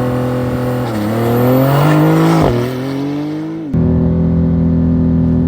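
High-performance sports car engine accelerating hard under full throttle, its pitch climbing and dropping sharply twice as it upshifts. Near the end the engine note holds at a steady pitch.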